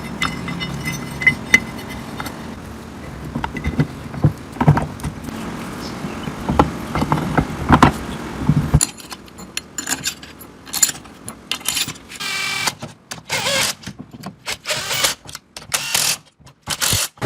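Short metallic clinks and knocks of tools and parts being handled over a steady low background. About halfway through this turns into a quick run of separate clatters with quiet gaps between them.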